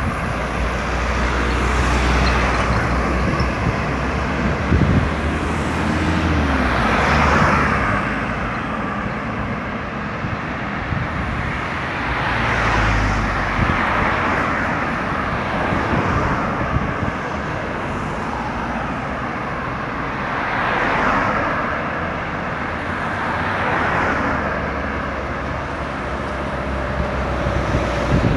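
Steady road traffic on a busy highway, with vehicles passing one after another every few seconds, each swelling and fading, over a low engine rumble.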